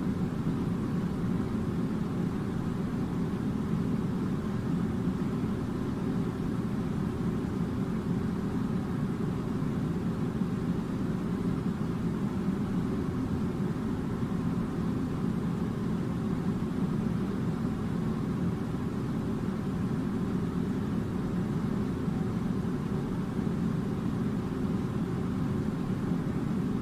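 Air conditioner running: a steady low rush of air and hum, even throughout.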